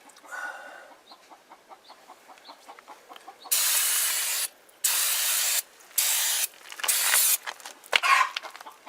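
Aerosol can of brake parts cleaner sprayed in four short bursts, each a second or less, about halfway through.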